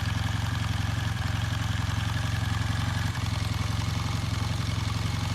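Honda CB400T Hawk II's air-cooled parallel-twin engine idling steadily, with an even pulsing beat.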